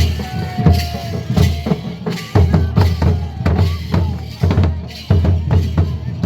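Folk drums beaten in a lively Jhumar dance rhythm, deep thuds with sharper strikes about two to three times a second.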